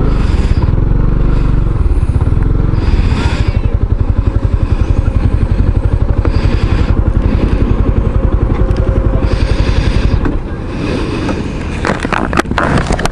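Kymco Xciting 500cc maxi-scooter engine running with a fast, even pulse, which drops away a little after ten seconds. A few clattering knocks follow near the end.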